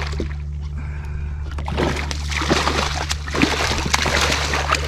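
Water splashing and sloshing at the surface beside a kayak as a hooked redfish is brought alongside. The splashes are choppy and irregular, growing from about two seconds in, over a steady low hum.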